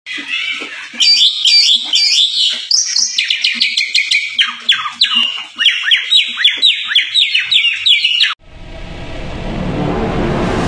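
Oriental magpie-robin (kacer) singing loudly: a fast run of sharp, clear whistled notes, many of them quick down-slurs at about three or four a second. The song cuts off abruptly about eight seconds in, and a rising whoosh from an intro sound effect swells in its place.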